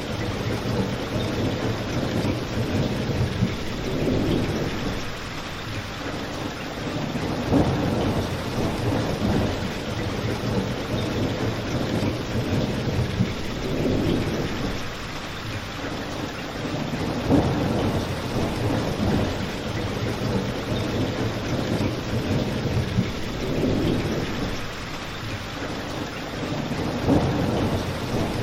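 Steady rain with a crackling fireplace, a slow low rumble swelling and fading every few seconds, and a few sharp pops from the fire.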